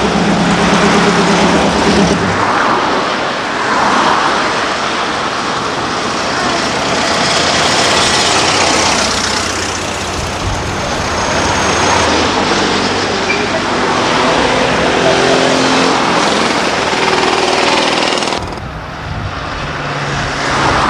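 Classic car engines running as several cars drive past one after another, over a steady noisy background.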